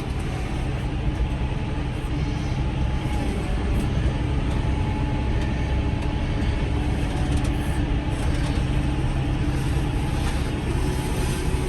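Farm tractor engine running steadily under load while pulling a round baler through the hay windrows, the baler's machinery running along with it.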